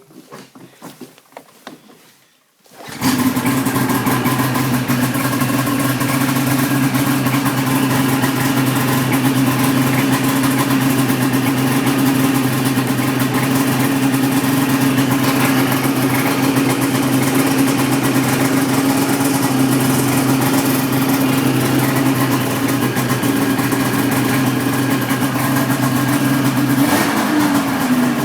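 Ski-Doo GSX 550F snowmobile's fan-cooled two-stroke twin starting about three seconds in after a few faint handling noises, then running at a steady idle. Near the end the engine note changes as the speed shifts.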